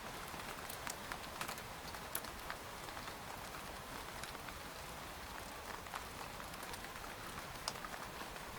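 Rain falling on a tent's fabric: a steady hiss with many scattered, irregular sharp taps of single drops.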